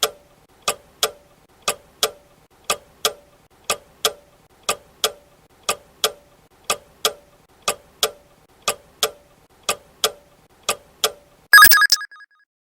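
Clock-tick countdown timer: a steady tick-tock, one pair of ticks each second, marking the 12-second answer time for a quiz question. It ends about eleven and a half seconds in with a brief, louder ringing alarm as the time runs out.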